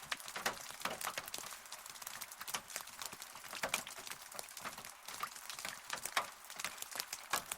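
Rain falling, with many separate drops tapping irregularly over a steady hiss.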